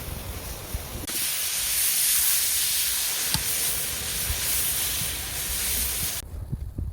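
A steady, loud hiss that starts abruptly about a second in and cuts off suddenly near the end.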